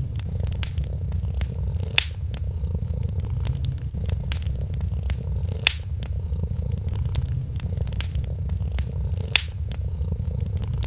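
A cat purring steadily over a crackling wood fire, with a few sharp pops from the fire about two seconds in, near the middle and near the end.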